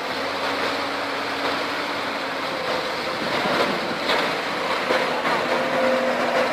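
Diesel engines of a Komatsu PC200 excavator and a CAT D6D bulldozer running steadily during the dozer's extraction from the mud, a constant drone with a steady low hum. A few knocks come about four to five seconds in.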